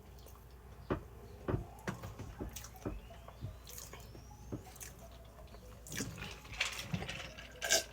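Close-up mouth sounds of eating pizza: wet chewing with irregular lip smacks and clicks.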